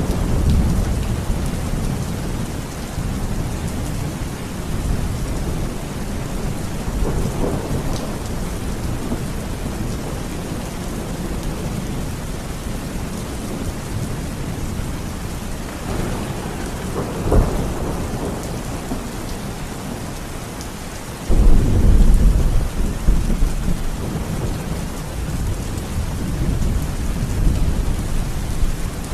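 Steady rain with rumbling thunder: a rumble at the start, a sharp crack a little past halfway, and a loud rumble that starts suddenly about three-quarters of the way through.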